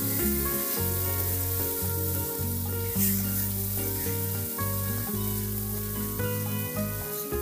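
Garlic, shallots, ginger and lemongrass sizzling in hot oil in a steel wok, stirred with a silicone spatula. A background tune of held notes plays throughout.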